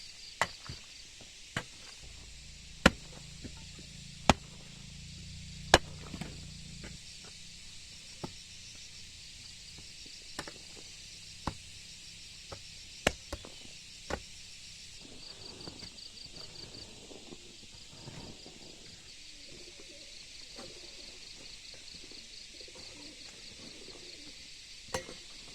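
Sharp, irregular knocks of hand-tool work on timber. The three loudest come about a second and a half apart a few seconds in. A steady pulsing trill of insects runs underneath.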